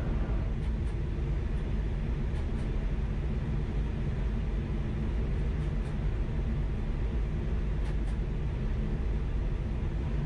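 Steady low rumble of a Chinese high-speed train running at speed, heard from on board. The higher hiss eases a little about half a second in, as the train leaves a tunnel.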